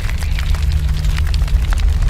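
A deep, steady rumble with many sharp crackles and pops scattered irregularly over it.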